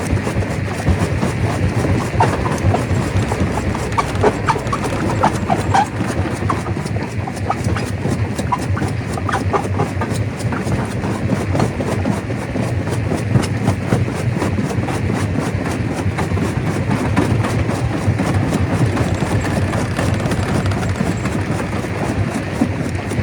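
Stone crusher running, with a steady low rumble and dense, continuous clattering of rocks being broken, and a scatter of short ringing clinks of stone in the first half.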